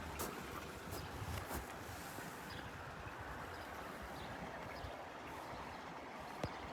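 Steady outdoor background noise with a low rumble, like wind on the microphone. A few light clicks come in the first two seconds, and one sharp click comes near the end.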